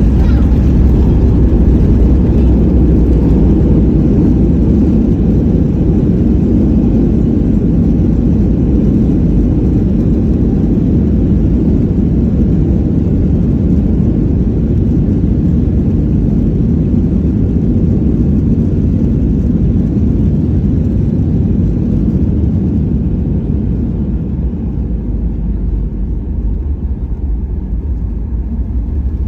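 Boeing 737-800 on its landing, heard inside the cabin: a loud, steady low rumble from the engines and from the airframe rolling on the runway. It eases off over the last several seconds as the aircraft slows.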